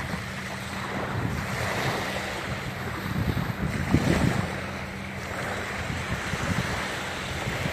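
Surf washing on the shore with wind rumbling on the microphone, swelling louder about three to four seconds in.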